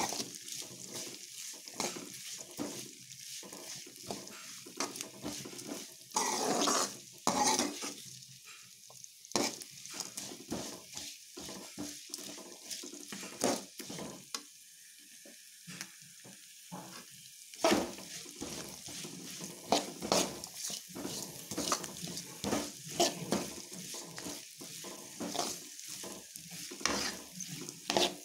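Chopped onions, green chillies and curry leaves sizzling in hot oil in a pan while being stirred, the stirring utensil scraping and knocking against the pan again and again. The stirring eases off for a few seconds around the middle, then picks up again.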